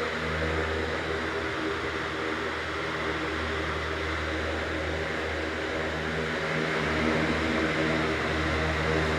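Britânia C50 electric fan running steadily: an even rush of moving air over a low motor hum.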